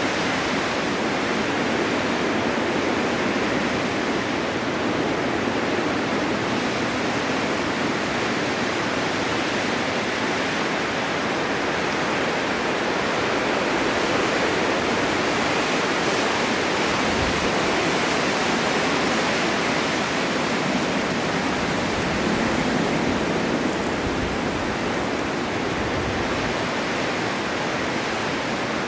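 Steady winter wind blowing snow, a dense even rush of noise that swells and eases slowly.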